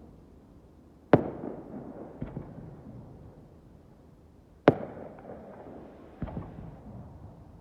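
Fireworks bursting: two loud, sharp bangs about three and a half seconds apart, each followed by a long rolling echo, with two fainter bangs between and after them.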